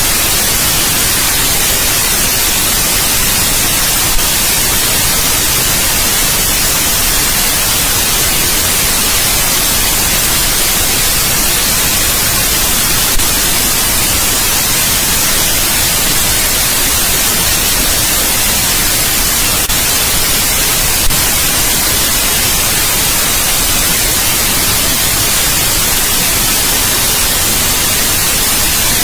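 Steady white noise for baby sleep: an even, unchanging hiss, brightest in the high end, broken only by three brief clicks.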